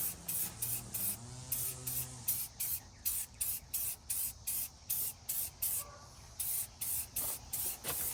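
Aerosol spray-paint can (rattle can) sprayed in quick short bursts, about three hisses a second, with a brief pause about six seconds in.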